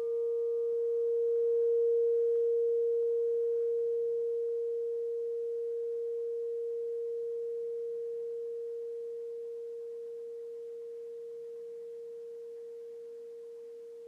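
Alchemy crystal singing bowl ringing on as one long, nearly pure tone, slowly fading away.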